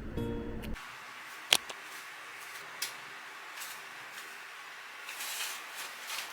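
Guitar background music cuts off under a second in, leaving quiet room tone. A single sharp click comes about a second and a half in, a fainter tick follows, and there is soft rustling of something being handled near the end.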